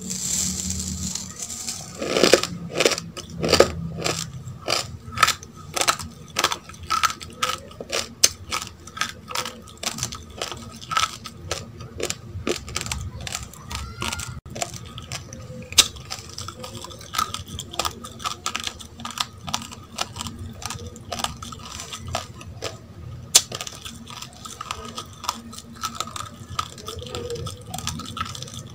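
Raw, uncooked rice grains crunched between the teeth close to the microphone: an irregular run of sharp crackling clicks, several a second. In the first second there is a brief rustling hiss as the grains tip from a plastic cup into the mouth.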